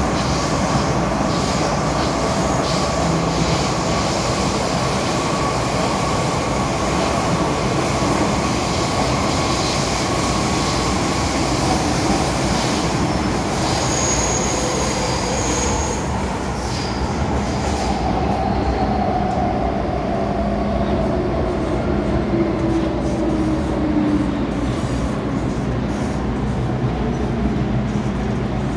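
MTR M-Train metro train running on the rails, a steady rumble of wheels and car body. Several motor tones slide down in pitch over the middle of the stretch as the train slows.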